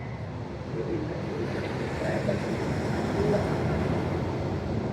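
Low rumbling noise of an open train car with wind buffeting the microphone, getting louder about a second in.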